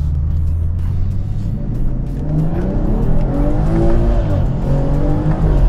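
BMW 540i's tuned B58 3.0-litre turbocharged inline-six accelerating hard. The engine note is low and steady at first, rises about two seconds in and falls back near the end.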